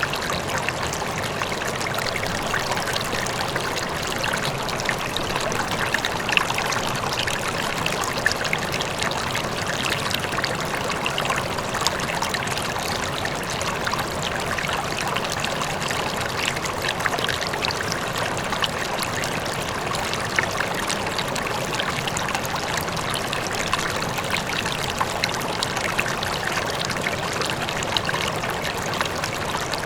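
River water flowing steadily over rocks, a continuous rushing and splashing with constant babbling flecks, a faint waterfall blended in behind it.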